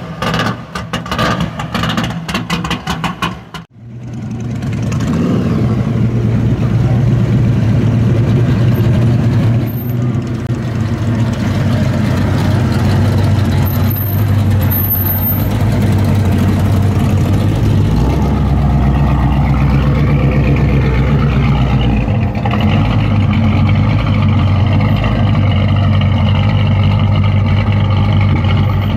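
Pontiac Firebird Trans Am's V8 running at idle through its quad exhaust, a steady deep note that grows heavier and deeper in the second half, with a few light rises in engine speed. It is preceded by a few seconds of choppy, rapidly cut sound over the opening logo.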